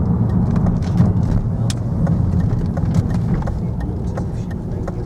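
A car driving, with a steady low engine and road rumble and scattered light clicks; the rumble eases off slightly near the end.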